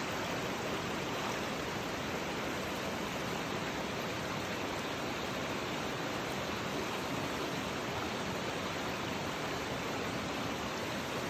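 Steady rush of running river water, an even noise with no breaks or changes.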